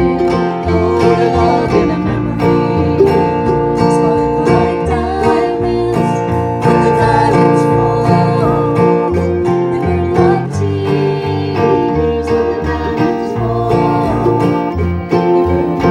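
Acoustic string band playing a country song live: plucked guitar and banjo with steady low notes underneath.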